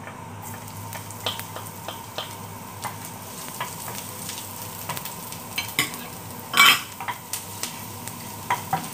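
Garlic sizzling in oil in a frying pan while a wooden spatula stirs it, with scattered taps and scrapes of the spatula on the pan. There is one louder knock about two-thirds of the way in.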